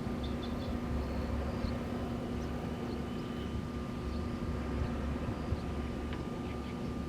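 Wind blowing at a wind farm: a low rumble that swells and drops, with a steady hum underneath and a few faint high chirps.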